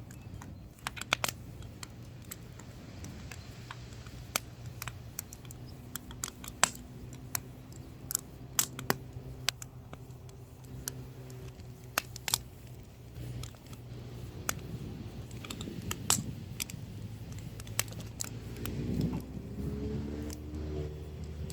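Firewood burning, crackling with irregular sharp pops and snaps over a low steady hum.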